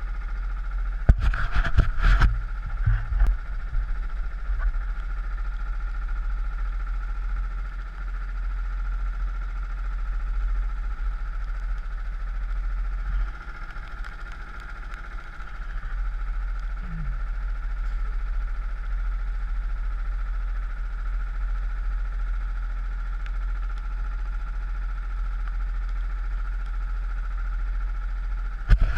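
Four-stroke rental kart engine running steadily at low revs, with a few knocks in the first few seconds.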